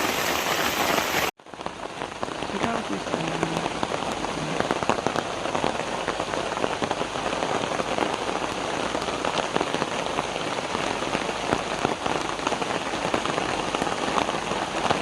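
Steady rain falling, with many individual drops tapping through the hiss. It cuts out abruptly for a moment about a second in, then resumes slightly duller.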